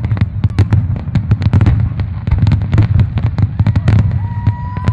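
Aerial firework shells bursting in a rapid, unbroken string of sharp reports and crackles over a continuous low rumble, with a thin whistle starting near the end.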